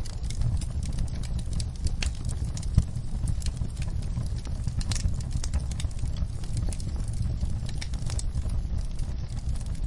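Wood fire burning, crackling with irregular sharp pops over a steady low rumble.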